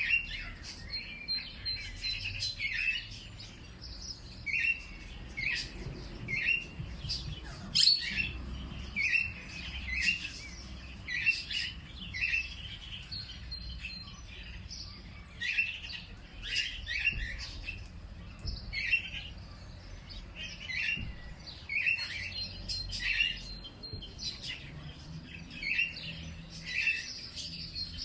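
Birds chirping: short, repeated chirps about one or two a second, with a thin high note held now and then.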